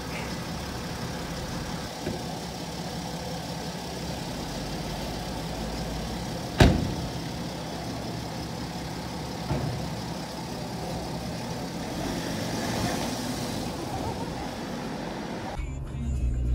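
A BMW X5 SUV's engine idling steadily, with one sharp thump about six and a half seconds in. Near the end the sound turns to a deeper, muffled rumble heard from inside the car's cabin.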